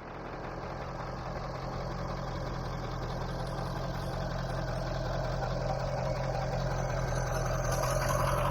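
Ford 7.3 L Power Stroke V8 turbo-diesel running steadily, its hum slowly growing louder.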